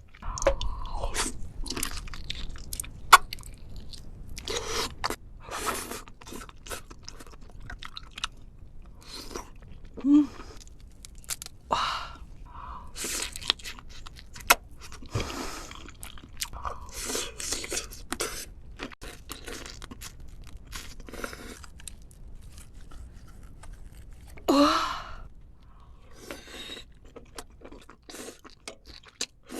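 A person chewing and biting crunchy food close to the microphone, with irregular crackling crunches and a few short pitched mouth sounds.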